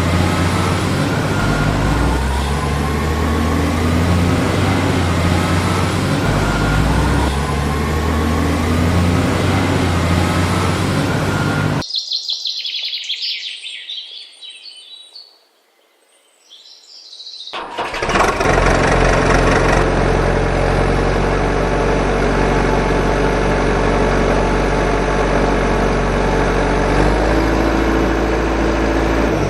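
Vehicle engine running steadily, cutting out about twelve seconds in. For about six seconds only high bird chirps are left, with a near-silent moment in the middle, and then an engine runs steadily again.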